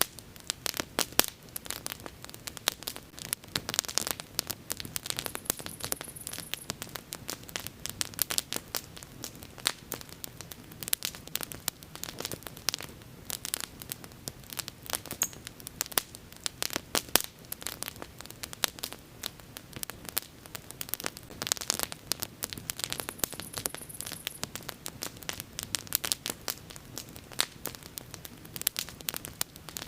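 Wood bonfire crackling, with dense, irregular snaps and pops over a low steady burn.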